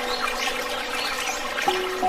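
Water splashing and trickling in an otter pool, with quiet background music holding a few steady notes.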